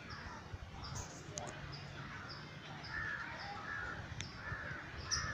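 Birds calling: a run of short, evenly spaced high chirps, joined about halfway through by a series of short repeated calls.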